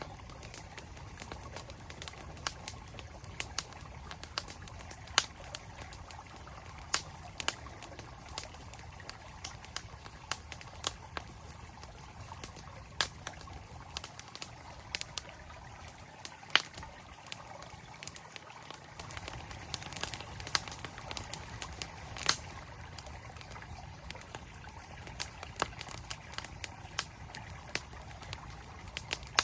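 Campfire crackling, with frequent sharp, irregular pops and snaps, over the steady rush of a flowing mountain stream.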